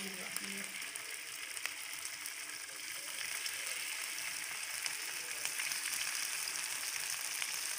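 Raw mutton liver chunks sizzling and crackling in hot oil in a frying pan, the liver freshly added to fried ginger-garlic paste and whole spices. The sizzle grows a little louder about three seconds in.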